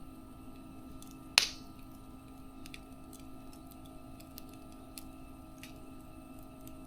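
Wood fire crackling with scattered faint ticks and one sharp, loud pop about a second and a half in, over a steady low hum.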